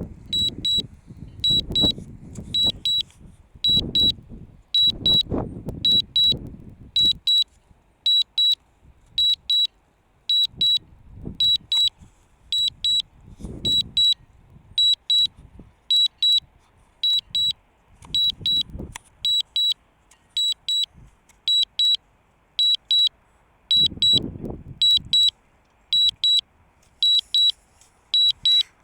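DJI Mavic Mini low-battery and return-to-home warning: a high pitched double beep repeating steadily, roughly three double beeps every two seconds. Low rumbles come and go under it.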